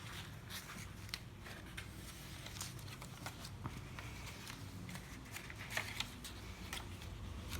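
Paper and card pages of a handmade journal being turned and handled: scattered soft rustles and light taps throughout.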